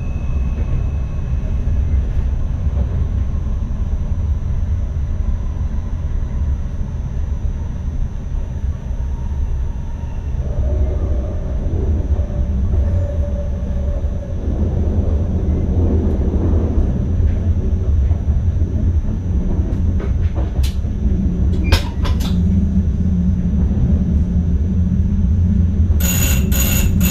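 NS ICM electric intercity train running, a steady low rumble of wheels and running gear heard inside the driver's cab. A few sharp clicks come about three quarters of the way through, and a brief burst of high ringing tones near the end.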